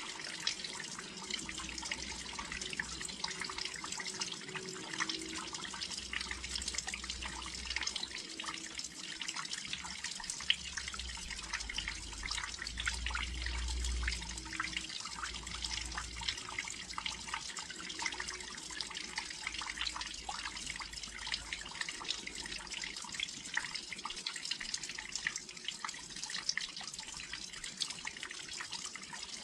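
Steady rain falling near a windowsill, a dense hiss full of individual drops ticking close by. A low rumble comes and goes underneath, swelling about halfway through.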